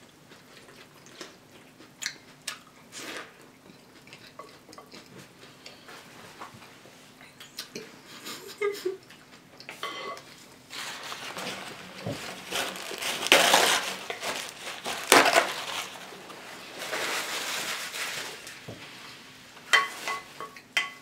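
Cereal being eaten from a bowl: a spoon clinking and scraping against the bowl in scattered clicks, getting louder and busier in the second half.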